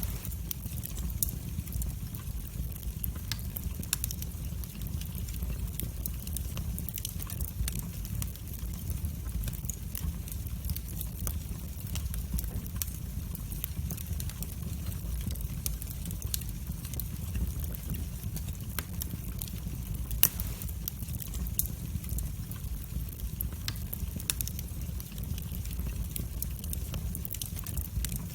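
Wood fire burning in a fireplace: a steady low rumble with frequent small sharp crackles and pops, and a louder pop about twenty seconds in.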